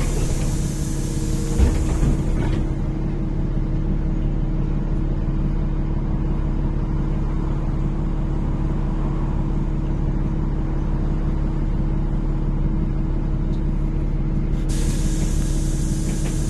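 NefAZ-5299 city bus heard from inside, its engine running with a steady drone. A hiss of compressed air comes from the air brakes or pneumatics at the start, and again about three seconds before the end.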